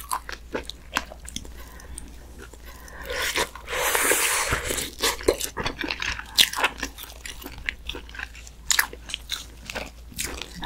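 Close-miked chewing and mouth sounds of someone eating tender, pressure-cooked muscovy duck meat picked from a spicy stew, with many small wet clicks and smacks. A louder noisy stretch of about a second and a half comes around three seconds in.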